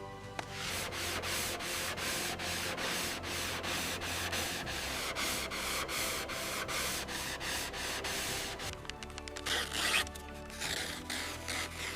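Rhythmic abrasive rubbing strokes like hand sanding, about three a second, over background music with steady notes. The strokes turn louder and rougher a couple of seconds before the end.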